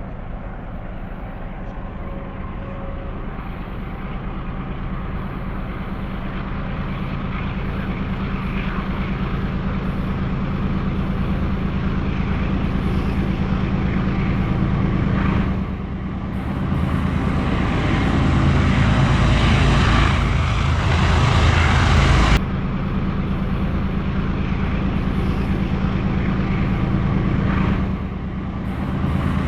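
Diesel locomotive engines of a passing freight train, a steady low drone with rumbling and rushing noise that grows louder over about twenty seconds. The rushing noise cuts off suddenly about two-thirds through, leaving the engine drone.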